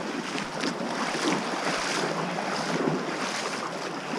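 Steady rushing of a stream swollen by a thunderstorm's rain.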